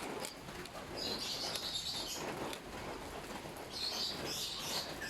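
Birds chirping over a steady background, in two spells about a second in and near four seconds in.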